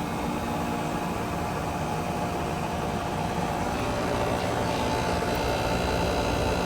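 Central air conditioner condensing unit running steadily with a low hum, its compressor on but its condenser fan not turning: the unit started up without the fan.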